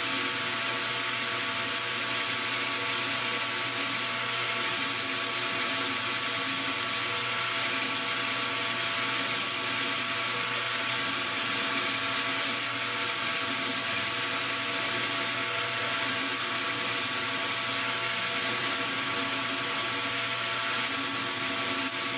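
Metal lathe running steadily with a parting tool cutting off a workpiece, a constant machine whine over an even cutting hiss.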